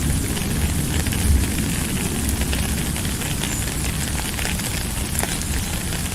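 Steady rainfall: an even hiss studded with many small sharp drop hits, over a low rumble.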